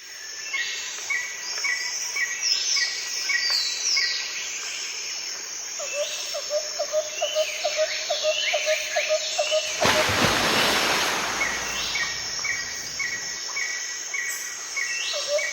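Birds chirping repeatedly with quick short calls, and a fast ticking trill in the middle, over outdoor ambience; a brief loud rush of noise comes about ten seconds in.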